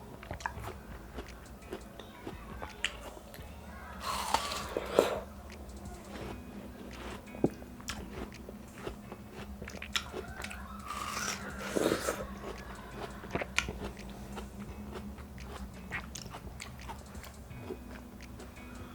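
Close-miked biting and chewing of juicy watermelon slices: wet, crunchy bites with scattered small clicks, louder around four to five seconds in and again around eleven to twelve seconds.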